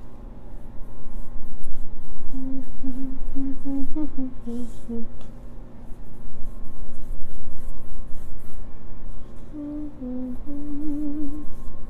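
A woman humming a tune softly to herself in two short phrases, over a steady low electrical hum. Faint scratchy brush strokes of paint on the backdrop cloth run underneath.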